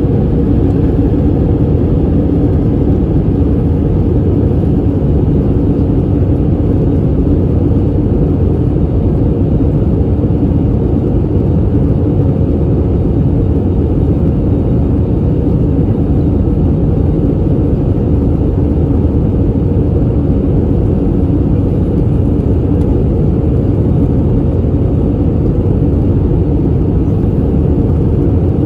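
Steady in-flight cabin noise of an Airbus A320neo at a window seat: a loud, even drone of the engines and airflow with a low, steady hum.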